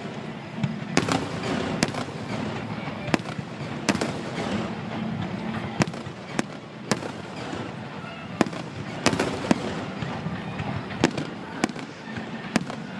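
Aerial fireworks bursting overhead: an irregular series of sharp bangs, one or two a second, some louder than others, over a steady background rumble.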